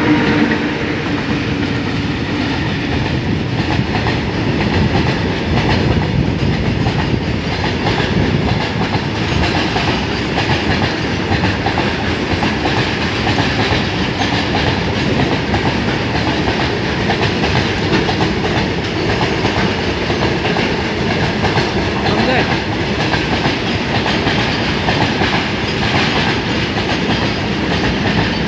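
Rail traffic hauled by an Indian Railways WAG 9 electric locomotive running by, with a steady clatter of wheels over the track joints.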